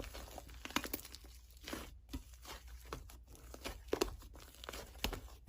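Slime being handled and squished by hand, giving irregular small crackles, clicks and sticky tearing sounds.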